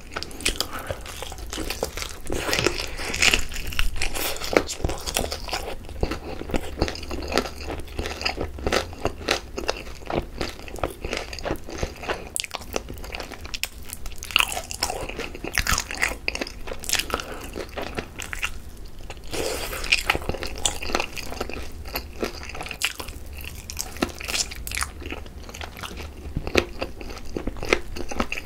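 Close-miked biting and chewing of a sauce-glazed Korean fried chicken drumstick (yangnyeom chicken), with a steady run of crisp crunches from the fried coating between slower chews.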